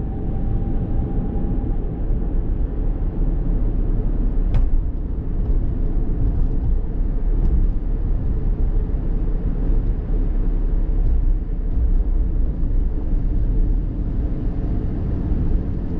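Strong wind buffeting the microphone, a loud, steady low rumble, with a faint click about four and a half seconds in.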